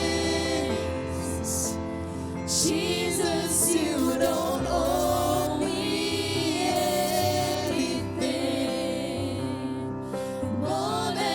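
Live gospel worship music: a band plays sustained chords while voices sing a slow worship song.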